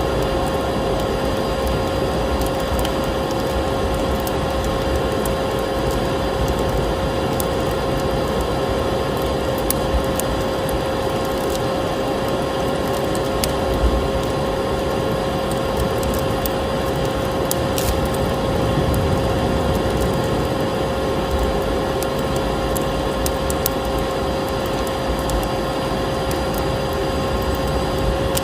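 A vacuum cleaner running steadily with a constant whine, mixed with the crackling and popping of a wood fire in a fireplace.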